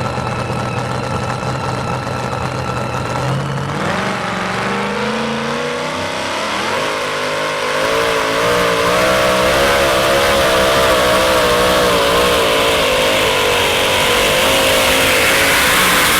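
Modified two-wheel-drive pulling truck's engine idling steadily, then climbing in pitch about four seconds in as it takes off down the track. From about eight seconds in it runs louder at high revs under the load of the sled, its pitch wavering up and down.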